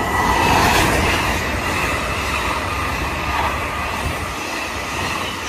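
LNER Azuma high-speed train running through the station at speed, a loud, steady rush of wheels on rail and air as the carriages pass close by, easing slightly toward the end.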